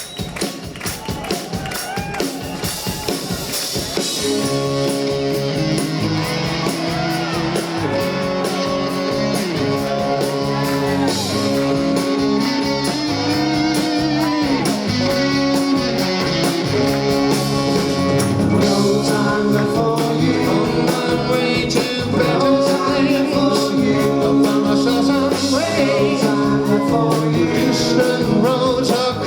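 Live rock band playing an instrumental intro: electric guitar lines with bent notes over drums and bass. The full band comes in about four seconds in.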